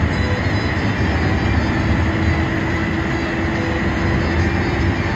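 Steady engine and road rumble heard from inside a moving air-conditioned bus, with a thin steady hum joining about a second in.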